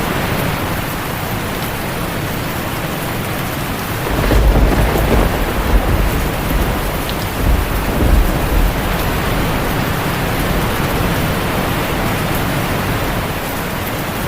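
Heavy rain drumming steadily on a tin roof, with a roll of thunder rumbling in about four seconds in and fading out a few seconds later.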